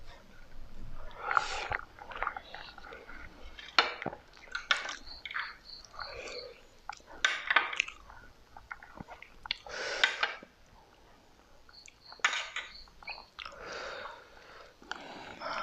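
Close-miked eating: irregular chewing and biting sounds from mouthfuls of chicken biryani and tandoori chicken, with short clicks and occasional clinks of a plate.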